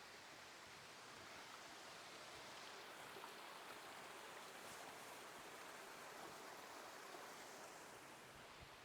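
Faint, steady rush of water from a small waterfall.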